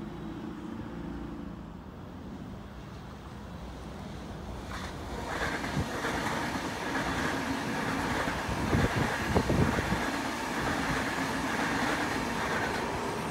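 Sydney Trains double-deck electric train passing on a nearby track: the rumble of wheels on rail builds up about five seconds in and carries on with a steady high whine, and a short run of knocks comes midway.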